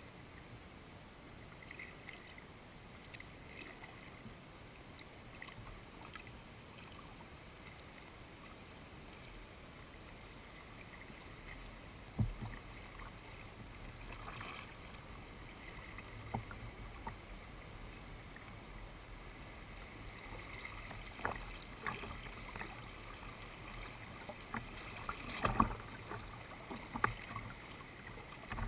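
Kayak paddling on a river: quiet paddle splashes and drips, with a few sharp knocks that come more often near the end.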